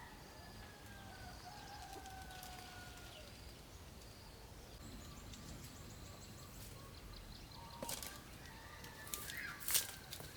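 A rooster crowing faintly, one long call of about three seconds that falls slightly in pitch. Near the end come a few sharp clicks and short calls.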